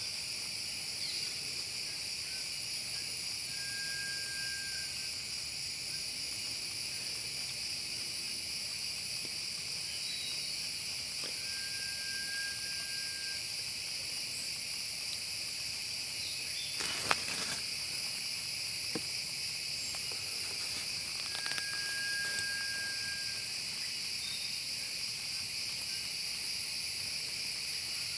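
A steady, high-pitched chorus of insects drones throughout, while a bird gives a single level whistled note about a second long, three times, roughly eight to nine seconds apart. One sharp click sounds just past the middle.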